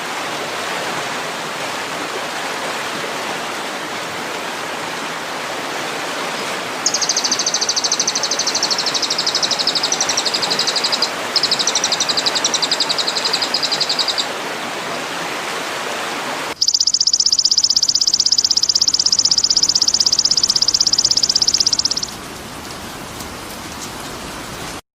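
Songbird training recording: two bursts of rapid, very high-pitched trilling over a steady rush of running water. After an abrupt cut comes a louder, even, high buzzing trill that lasts about five seconds over a quieter background.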